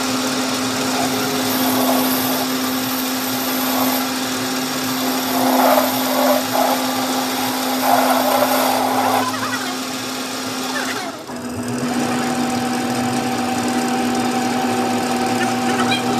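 A machine motor running steadily with a constant hum and an even hiss over it. The sound drops out briefly about eleven seconds in, then the same hum carries on.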